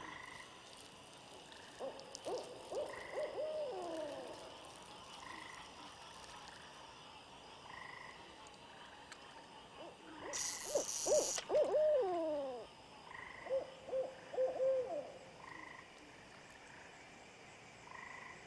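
Owl hooting in three bouts of wavering, gliding hoots, over a night chorus with a short high peep repeating about once a second. A brief high hiss sounds about ten seconds in.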